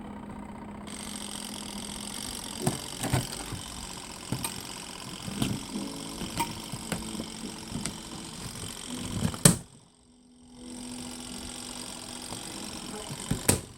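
Broken washing machine running with a steady hum and irregular knocking and clunking, with one loud bang about nine and a half seconds in, then a brief drop-out before the hum resumes.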